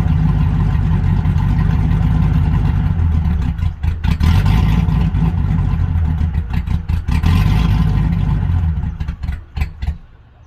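Supercharged 6.2 L Hemi V8 (Hellcat engine) with an aftermarket cam running in a Ram 2500 on its first start-up, untuned. It runs steadily with two short revs about four and seven seconds in, turns choppy and uneven near the end, then drops away.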